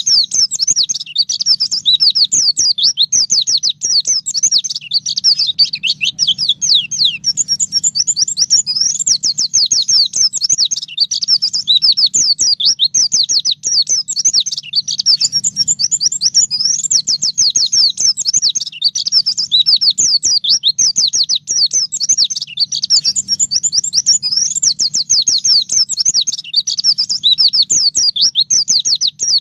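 White-eye (pleci) singing a continuous, fast chattering song of rapid high-pitched notes, with a faint steady low hum underneath.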